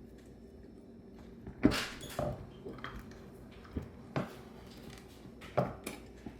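Scattered sharp metal clicks and knocks from working at a Bendix Stromberg WWC two-barrel carburetor to separate its stuck top, with one louder knock about one and a half seconds in.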